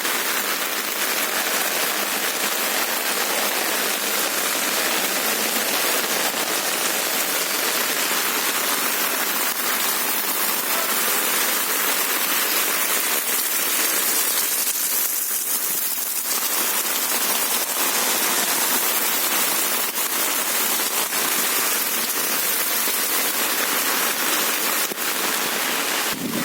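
Heavy rain falling steadily, a constant hiss of drops on surfaces.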